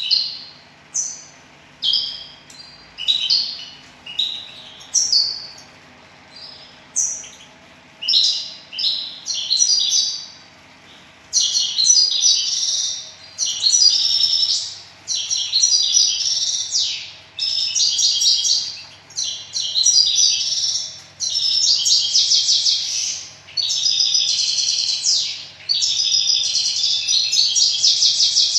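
Small birds chirping and singing: separate short high calls about once a second at first, then a dense, almost unbroken run of twittering song from about eleven seconds in.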